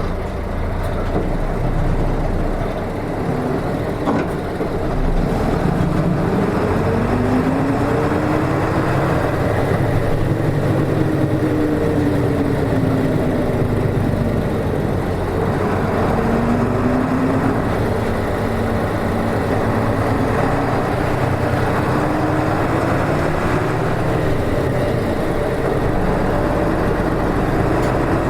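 Nissan Diesel KK-RM252GSN route bus's diesel engine running under way, heard from inside the passenger cabin. Its pitch climbs and drops several times as it pulls through the gears.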